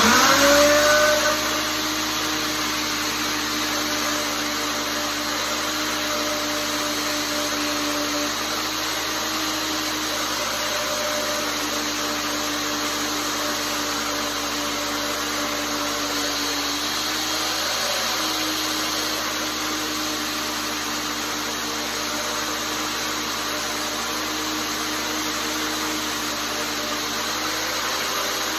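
Belt grinder switched on: its motor spins up with a rising whine, then runs steadily, a constant hum with the hiss of the moving belt.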